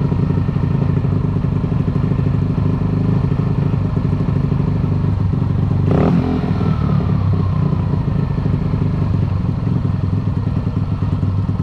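Honda CG Fan's single-cylinder four-stroke engine idling steadily while its carburetor idle is being turned down, with the idle still a little high. A short sharp knock sounds about six seconds in.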